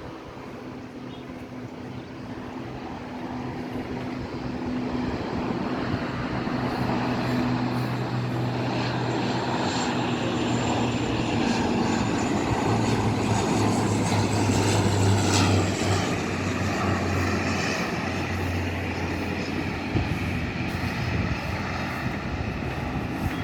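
Airplane engines growing steadily louder as the aircraft approaches, loudest about two thirds of the way in, with the engine hum dropping in pitch as it passes.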